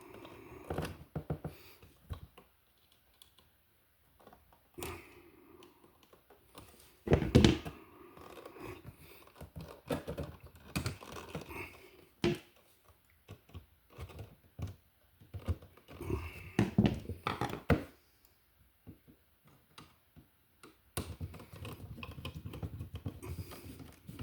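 Irregular small clicks, scrapes and knocks of hand tools and wire on a wall receptacle as the ground wire is bent around its green screw and the screw is tightened, with one louder knock about seven seconds in.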